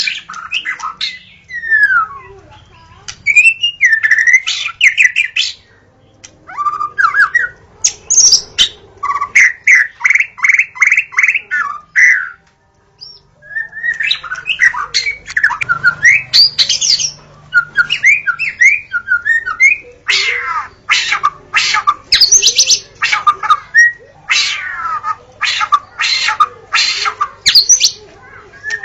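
White-rumped shama singing a varied song of loud whistled phrases, quick runs of repeated notes and harsh rasping notes, with brief pauses between phrases.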